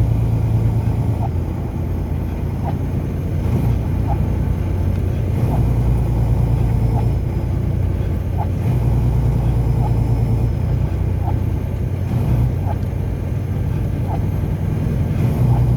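A car driving: a steady engine and tyre rumble that swells and eases slightly, with a faint light tick about every second and a half.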